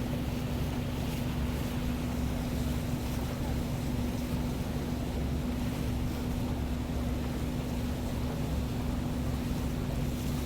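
Passenger cruise boat under way, its engine running with a steady drone and a constant low hum, with the rush of water and wind over it.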